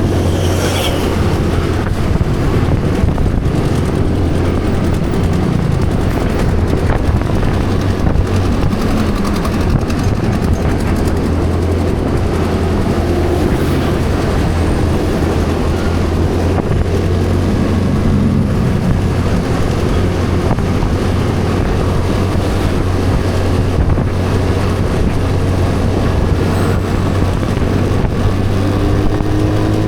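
Motorcycle engine running steadily under way, with road and wind noise on the microphone. Near the end the engine note rises as it speeds up.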